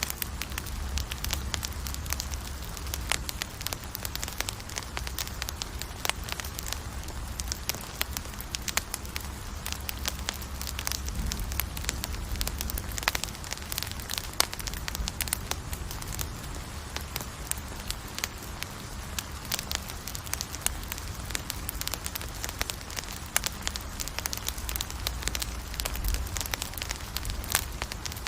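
Campfire burning, wood crackling and popping in many quick, sharp snaps over a steady low rumble of the flames.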